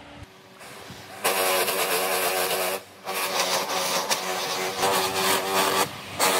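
Electric power tool running and working wood, a steady motor hum over a rough cutting noise. It starts about a second in and stops briefly twice.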